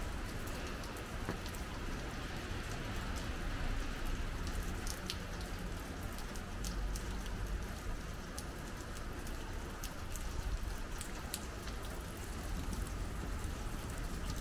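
Steady rain falling, with many scattered drops ticking sharply close by.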